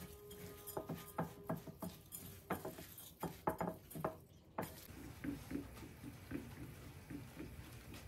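Household objects being handled: a run of clinks and knocks with short ringing, like dishes and utensils. From about halfway, a soft, regular tapping about four times a second.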